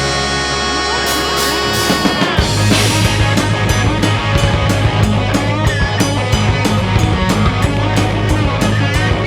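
Live rock band playing: a held, ringing guitar chord for about two seconds, then the full band comes in with drums keeping a steady beat under the guitars.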